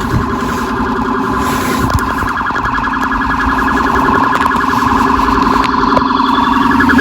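Police car siren sounding a rapid, fast-pulsing tone that grows steadily louder as the patrol car approaches.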